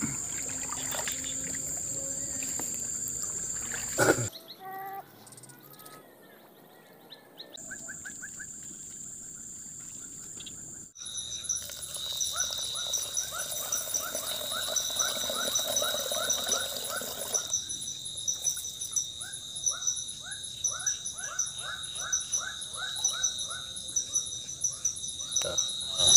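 Forest ambience of insects and birds. Insects keep up a steady high whine and fast pulsing trills, while calls come in series of short repeated notes. The mix changes abruptly several times.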